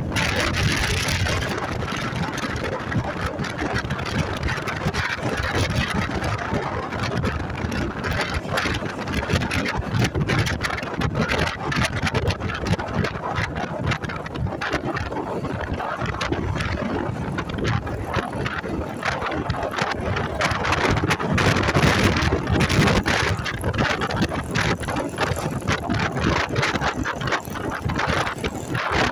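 Motorcycle riding noise: wind rushing and buffeting over the microphone, with road and engine noise underneath, rising and falling a little.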